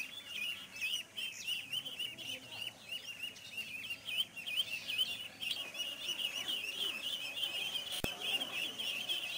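Many small birds chirping continuously, with quick overlapping high calls. There is a single sharp click about eight seconds in.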